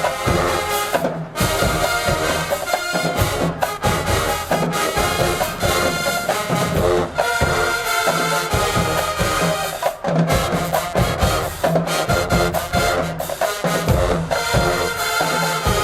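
HBCU marching band playing: brass section over a drumline, with steady drum hits under the horns.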